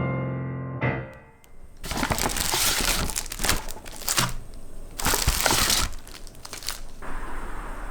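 Background music fading out, then plastic or paper packaging being crinkled and handled in several loud bunches.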